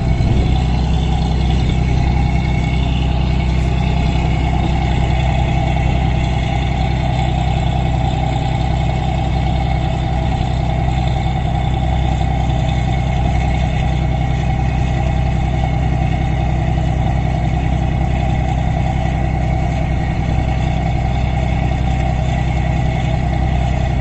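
An engine running steadily, a constant low drone with hiss over it, unchanged throughout.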